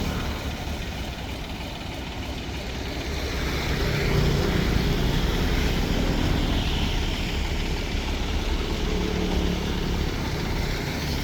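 Engine of a mud suction boat running steadily, its drone getting louder about four seconds in.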